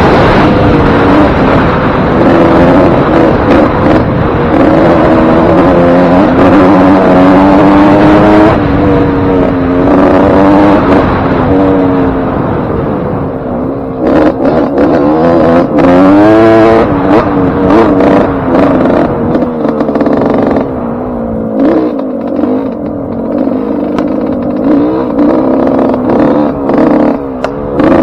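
Suzuki RM125's single-cylinder two-stroke engine being ridden, freshly rebuilt with a new piston ring and wrist pin. It holds high revs for the first several seconds, then its pitch rises and falls again and again as the throttle is worked.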